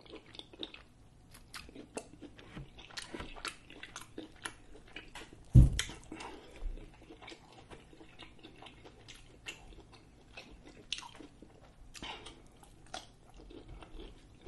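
Close-miked chewing of grilled seafood: wet mouth clicks and lip smacks, with one louder thump about five and a half seconds in.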